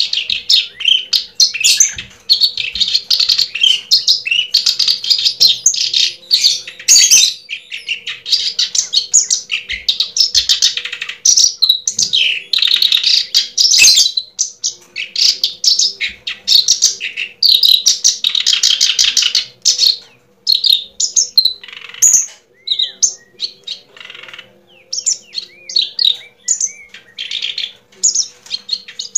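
Small birds chirping rapidly and almost without pause, many high-pitched calls crowding over one another, with a brief lull a little past the middle.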